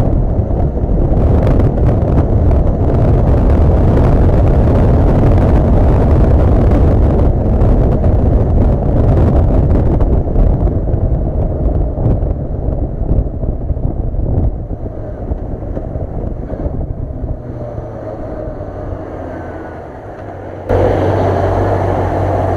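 Honda CB400 Super Bol d'Or's inline-four engine running under way, heavily mixed with wind rushing over the camera microphone. The wind and engine noise ease off and grow quieter as the bike slows. About 21 seconds in, the sound switches abruptly to a steady, clearer engine hum.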